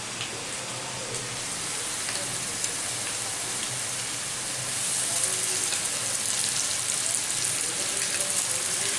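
Sliced potatoes and onions frying in oil in a pan, a steady sizzle that grows a little louder about five seconds in.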